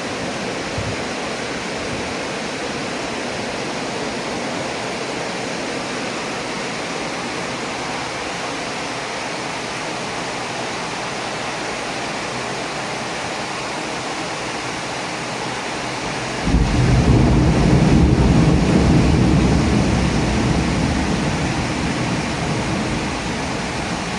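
Very heavy rain falling in a steady hiss. About two-thirds of the way through, thunder breaks in suddenly with a loud low rumble that fades away over several seconds.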